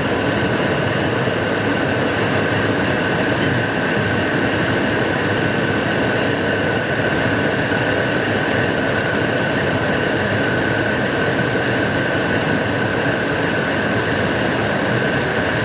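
2006 Dodge Dakota's six-cylinder engine running at a steady speed with a steady high whine over it. The engine has a random misfire that makes the truck shake.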